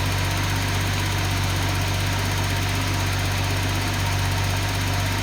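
Nissan 280ZX turbo straight-six engine idling steadily on a test stand, running through its muffler.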